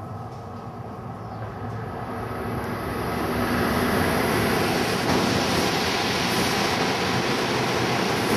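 Tohoku Shinkansen bullet train passing through a station at high speed: the rushing wheel and air noise swells over the first three seconds or so as it nears, then holds loud and steady.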